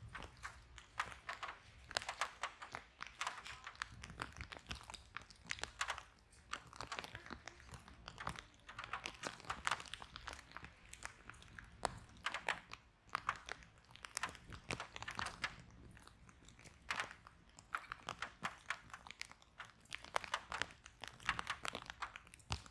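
Wood fire in a fireplace crackling, with frequent irregular pops and snaps over a low, steady rumble.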